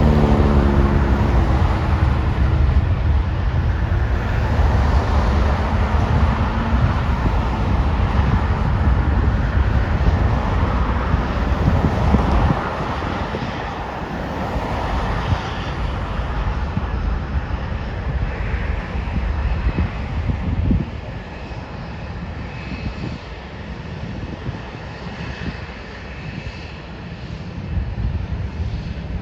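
Jet airliner engines rumbling as an aircraft passes close by, with a falling pitch at first. The rumble is loud for about the first twelve seconds, then fades, leaving a quieter rumble with a thin high whine.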